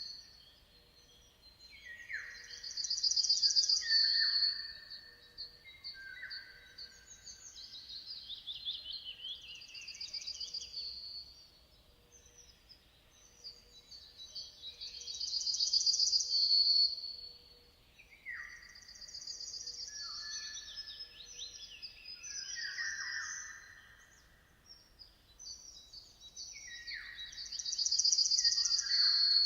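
Songbirds singing and chirping. A loud trilled song phrase comes three times, about twelve seconds apart, and quieter descending chirps fill the gaps between.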